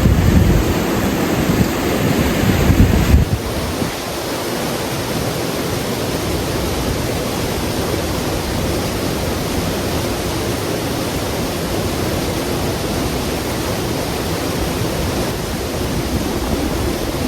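Waterfall rushing steadily. For about the first three seconds a heavy low rumble of wind buffeting the microphone lies over it; after an abrupt change about three seconds in, only the even rush of falling water remains.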